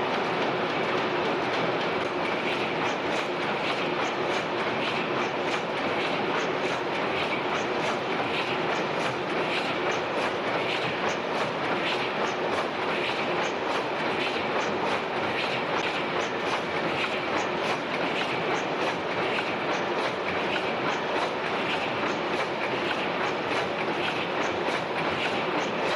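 Several large 400 HP Snow tandem natural-gas pumping engines running together under full load, a steady rhythmic mechanical clatter.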